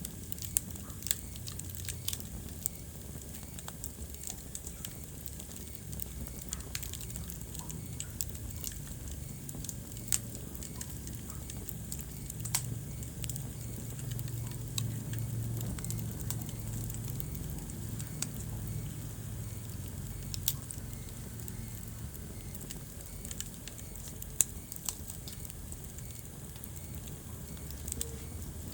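Wood fire burning in a fireplace: a low steady rumble of the flames with irregular crackles and a few sharper pops.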